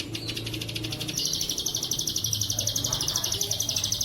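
Bren cicada (tonggeret) giving a rapid, evenly pulsed high buzz, briefly broken near the start and resuming about a second in, as used in masteran recordings for training songbirds.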